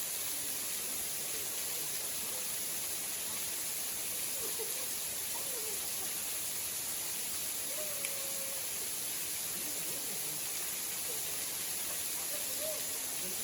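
Steady rushing of a waterfall, with faint voices in the background.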